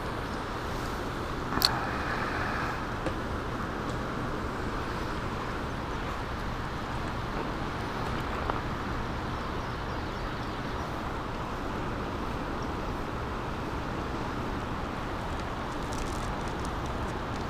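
Steady, even rushing noise outdoors with no pitch to it, and one short sharp click about a second and a half in.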